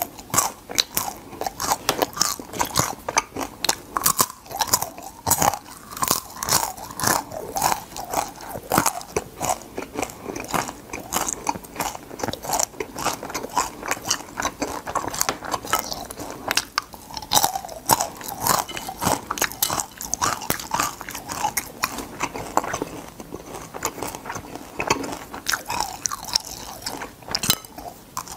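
Close-up chewing of crispy deep-fried crab, the shells crunching and cracking between the teeth in a dense run of crisp crunches, several a second.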